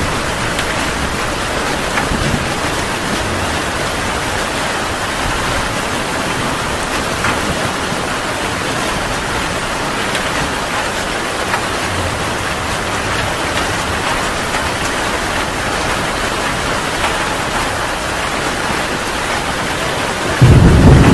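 Heavy rain falling steadily. Near the end, a loud low rumble of thunder breaks in suddenly.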